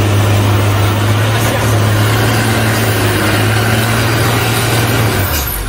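A vehicle's engine running close by with a steady low hum, which drops away about five seconds in.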